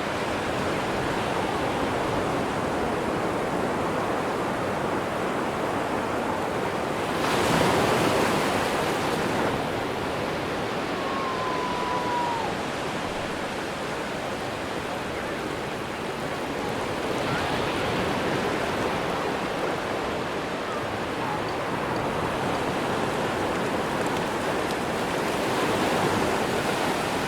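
Atlantic surf on a sandy beach: a steady wash of waves, with louder breakers swelling about a quarter of the way in, again past the middle, and near the end. A faint brief chirp sounds just before the middle.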